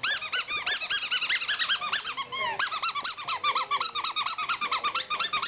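A dog's squeaky toy ball squeaked over and over as the dog chews it, a rapid run of short high squeaks rising and falling in pitch, about five or six a second, a little lower-pitched after about two and a half seconds.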